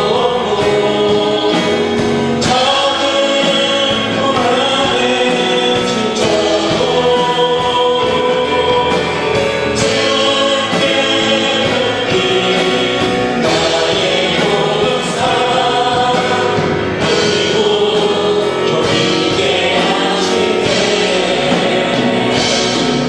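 Many voices singing a Christian worship song together over instrumental backing, with a steady beat.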